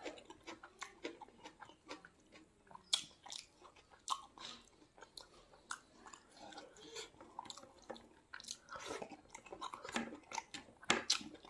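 A man chewing a mouthful of rice and chicken liver close to the microphone: irregular sharp clicks and wet mouth sounds of chewing.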